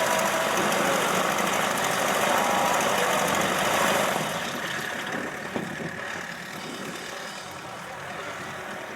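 Propeller aircraft engine running, loud for about four seconds and then falling away to a lower, steady level, with faint voices in the background.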